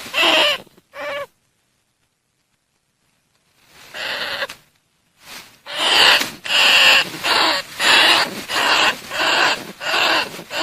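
Bandicoot rat calls played as a decoy to lure rats for trapping: short pitched calls in a series, breaking off about a second in and going quiet for over two seconds. After one call near the middle, they resume at about two calls a second.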